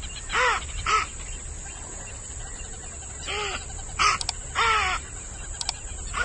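An animal calling: about five short calls that rise and fall in pitch, two together at the start and three more a few seconds later, over a steady high-pitched tone.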